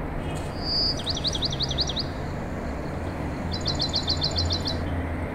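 A songbird singing two short phrases. The first is a brief high whistle followed by a quick run of about seven notes. About a second and a half later comes a faster run of about ten notes, over a steady low rumble.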